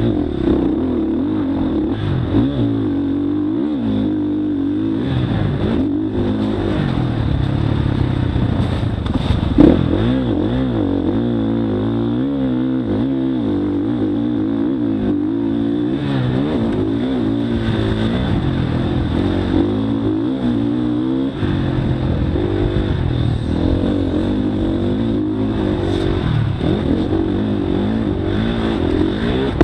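Motocross bike engine revving, its pitch rising and falling again and again as the throttle is worked, with a sharp thump about ten seconds in.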